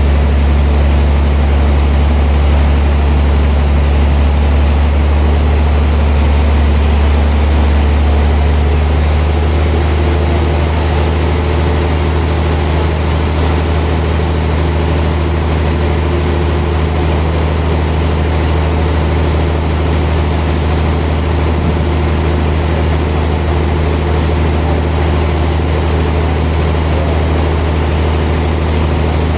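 Sawmill machinery running steadily: a loud, deep motor hum with a faint change in its tone about nine seconds in.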